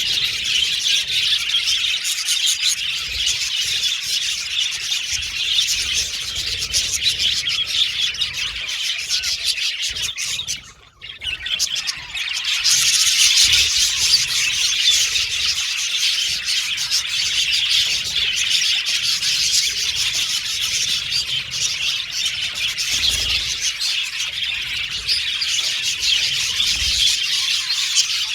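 A flock of budgerigars (budgies) chattering and chirping without a break, a dense warbling mix of many birds. It dips almost to silence for about a second near the middle, then picks up again.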